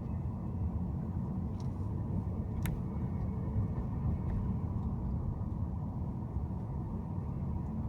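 Steady low rumble of a car driving, its road and engine noise, with a sharp click about two and a half seconds in.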